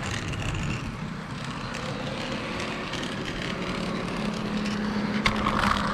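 HO scale model train running along its track, heard from on board: steady rumble of wheels on rail with a low motor hum that comes up about four seconds in. A sharp click about five seconds in, followed by a brighter rattle.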